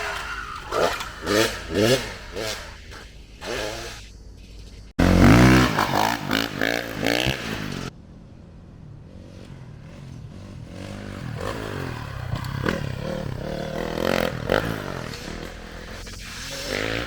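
Dirt bike engine revving up and down as it rides, in short clips with abrupt cuts between them. About five seconds in there is a sudden loud, low rumble lasting under a second; the engine is quieter after a cut about eight seconds in.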